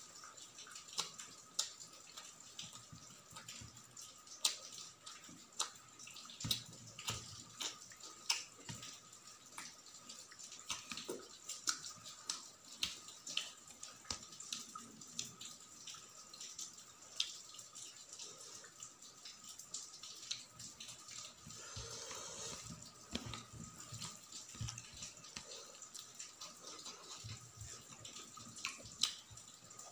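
Close-up wet eating sounds: chewing and lip-smacking with many sharp wet mouth clicks, mixed with the squelch of rice and curry being mixed by hand on a steel plate.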